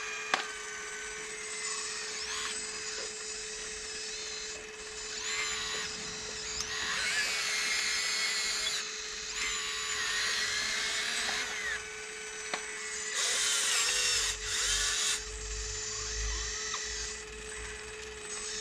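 Small electric motors of radio-controlled scale construction machines whining in repeated bursts that start, stop and shift in pitch as the machines work, over a steady hum. There is a low rumble about three quarters of the way through.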